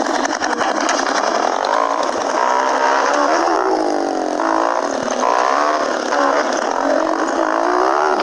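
Small motorcycle engine running while riding, its pitch rising and falling with the throttle, over a steady rush of noise.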